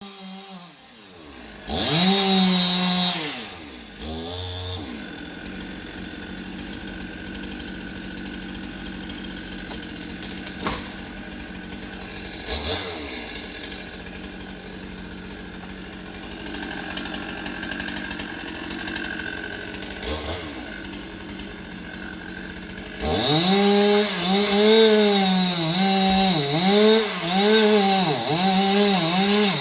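Gasoline chainsaw: a short loud rev about two seconds in, then a long stretch running steadily at a lower level with a few sharp knocks. From about three-quarters of the way through it revs loudly, its pitch swinging up and down over and over, as in cutting fallen trees.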